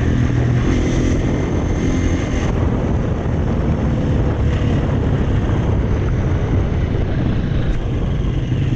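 Husqvarna FE 350 enduro motorcycle's single-cylinder four-stroke engine running steadily through an FMF 4.1 exhaust.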